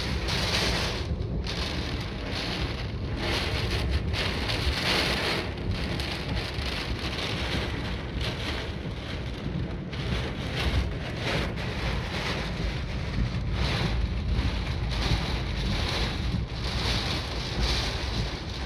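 Typhoon wind and rain, gusting in waves, with heavy wind rumble buffeting the microphone.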